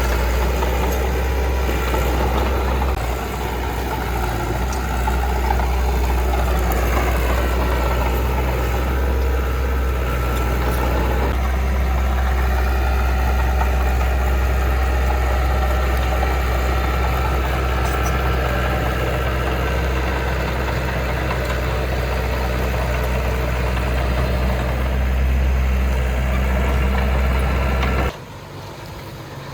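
Heavy diesel engine of earthmoving machinery running steadily with a deep, even hum. It cuts off suddenly near the end, leaving a much quieter background.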